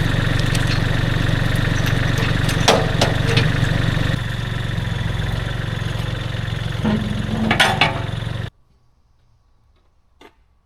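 A small engine running steadily, with a few sharp knocks over it. Its level drops about four seconds in, and the sound cuts off abruptly after about eight and a half seconds.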